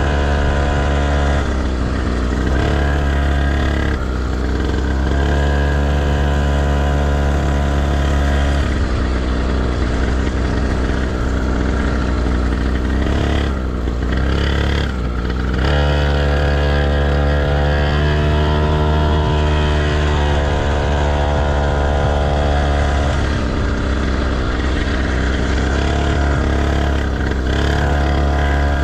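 Motocross bike engine running hard on the track, holding its revs for stretches, then revving up and easing off as the rider works the throttle. There is a steady deep rumble underneath.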